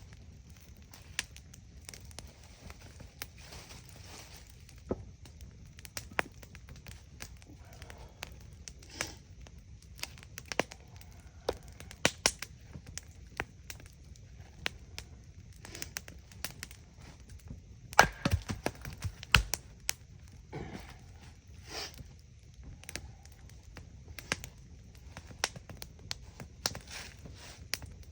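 Wood campfire crackling, with irregular sharp pops throughout and a burst of louder cracks about two thirds of the way in.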